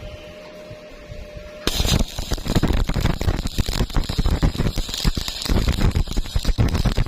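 Welding arc struck under two seconds in, then a loud, steady crackle as the weld is run.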